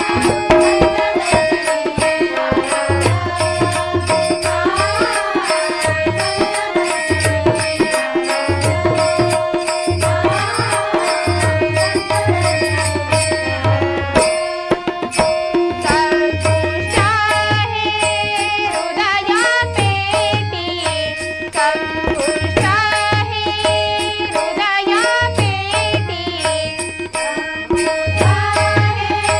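Marathi abhang devotional music: a sustained drone with hand-drum beats, and a wavering melody line over it in the second half.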